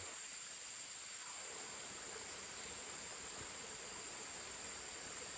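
Steady high-pitched chorus of insects, crickets or cicadas, droning without a break.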